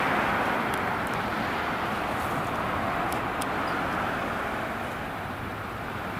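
Steady rushing noise of a train on the line, slowly fading as it moves away, with a few faint clicks.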